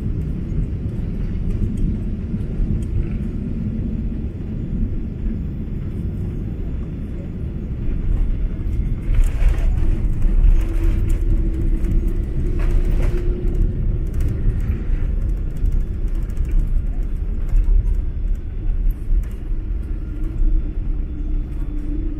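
Boeing 777-200 cabin noise during the landing: a steady low rumble of engines and airflow. It grows louder about eight seconds in, with two short rushes of noise.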